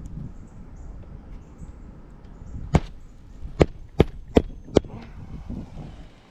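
A roofing hatchet driving a 1 1/4-inch roofing nail into an asphalt shingle roof: five sharp strikes, one alone and then four in quick succession. The shingles are held lifted just enough to set the nail straight.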